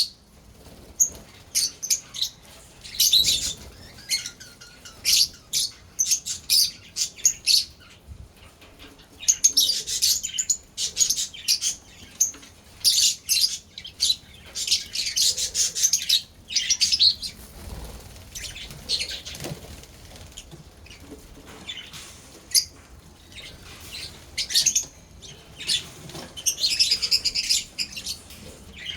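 Lovebirds chattering: many short, shrill, high chirps, scattered singly and in quick runs throughout.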